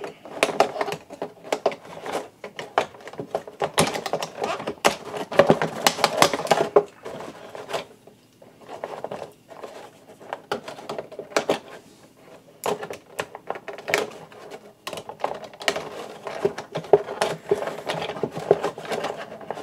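Plastic and cardboard toy packaging crinkling and clicking as an action figure is cut and worked free of it, in irregular clusters of sharp clicks with a few quieter pauses.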